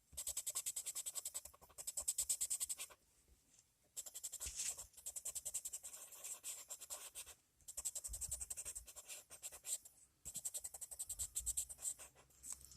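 Coloured pencil shading on paper: quick back-and-forth scratching strokes, several a second, in bouts broken by brief pauses.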